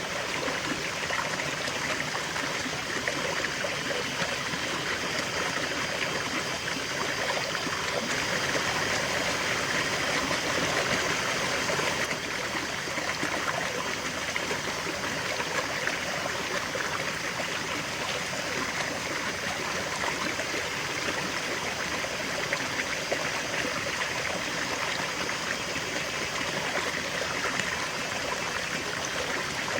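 River water flowing steadily, a continuous rushing and babbling of a stream over rocks.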